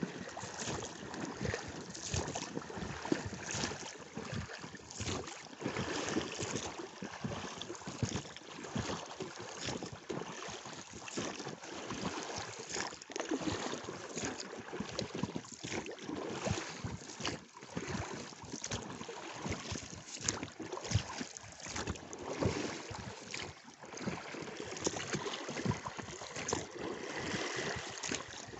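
Angara River water splashing and lapping, mixed with wind gusting on the microphone, an uneven noise that swells and drops every second or so.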